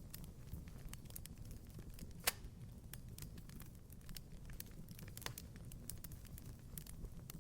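Wood fire crackling in a fireplace: irregular small pops and snaps over a low steady rumble, with one louder pop about two seconds in.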